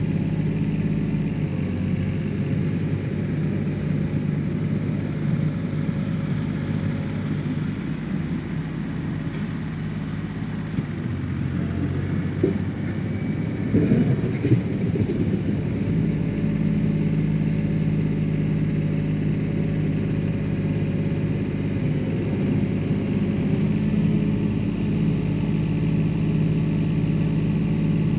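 1985 John Deere 1050 compact tractor's three-cylinder diesel engine running steadily. Midway its note drops and changes for several seconds, with a few sharp knocks, then it settles back to a steady run.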